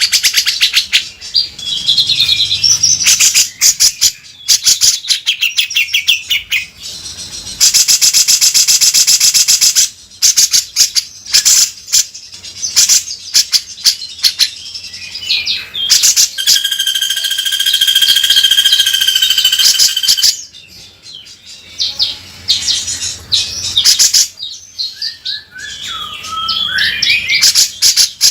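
Cucak jenggot (grey-cheeked bulbul) singing loudly in harsh, rasping rattles and quick chattering phrases, the coarse 'beset' style. Partway through comes a long held note with a shimmering two-pitch tone.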